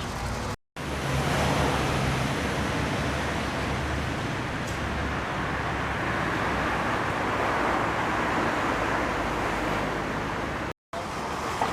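City street traffic: a steady rush of cars driving past, with a low engine rumble, dropping out briefly twice.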